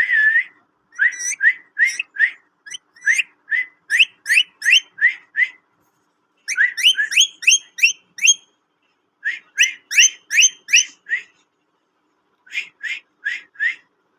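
A pet parrot whistling: quick series of short, upward-sliding whistled notes, about three a second, in four bouts with short pauses between them.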